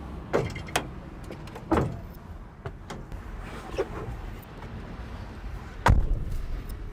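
Cab door and steps of a SANY STC250T4 truck crane knocking and bumping as someone climbs into the driver's cab: a handful of scattered knocks, the loudest about six seconds in.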